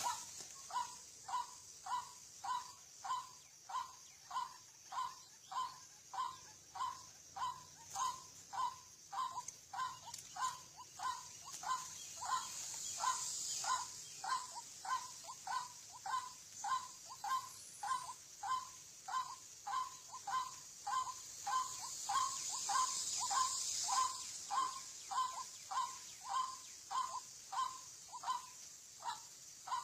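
White-breasted waterhen (ruak-ruak) calling: a short note repeated steadily, about one and a half times a second, over a steady high hiss that swells twice.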